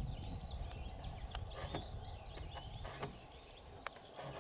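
Several songbirds chirping and singing, many short overlapping calls and quick whistled notes, over a low steady rumble.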